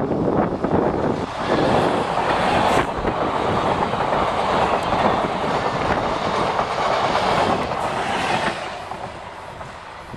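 A diesel-electric multiple unit (DEMU) commuter train passes close by at speed: a loud rush and clatter of wheels on rail as the coaches go past, fading near the end as the train moves away.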